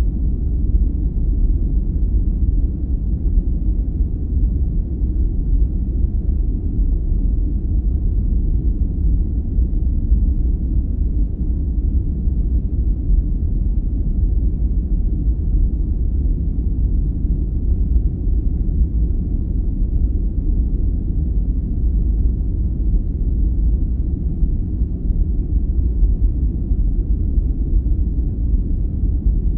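Steady, deep, even rushing noise with its weight in the bass and nothing bright above it, unchanging throughout: a sleep-aid noise track of the deep 'brown noise' kind, sold as white noise.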